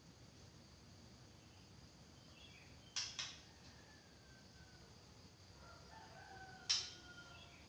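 Faint outdoor birdsong: short falling chirps and a few sharp, loud calls, twice about three seconds in and once near the end. A rooster crows in the background through the second half.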